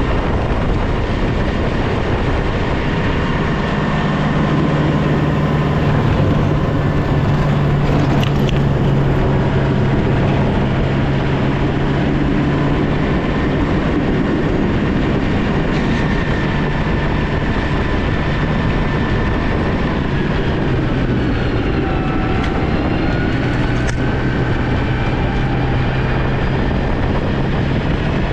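Snow-plow vehicle's engine running steadily under load, with a higher whine that dips and rises again a little past the two-thirds mark.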